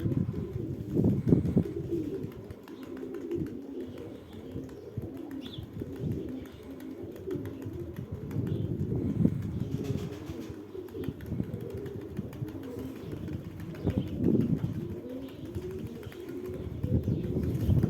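Domestic pigeons (Sverdlovsk high-flyers) cooing continuously in a low, warbling register, with a few short bursts of wing flapping.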